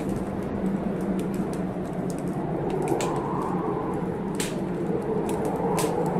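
Wood fire crackling with several sharp pops over the steady rush of heavy blizzard wind, which swells about halfway through.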